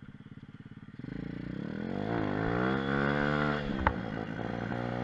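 Mini moto / pit bike engine idling with a pulsing beat, then pulling away about a second in and revving up, easing off briefly and revving up again. A single sharp click near the end, after which the engine runs steadily at a lower pitch.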